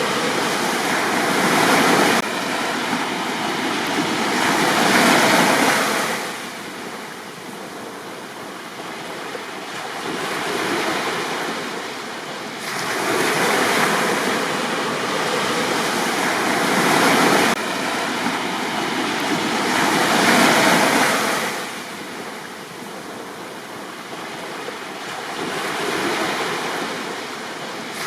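Sea waves breaking and washing up a beach, the surf swelling and falling back every few seconds.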